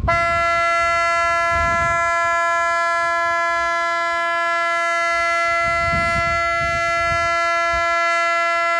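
A loud, buzzy, horn-like tone that starts abruptly and holds at one unchanging pitch, rich in overtones, for the whole of about nine seconds.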